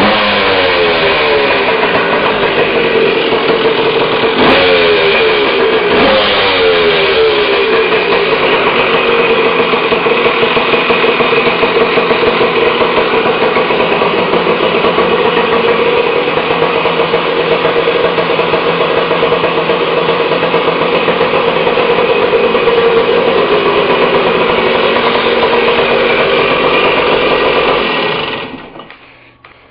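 A 1978 Yamaha MX 175's single-cylinder two-stroke engine is revved with several throttle blips over the first several seconds. It then runs steadily and is shut off near the end.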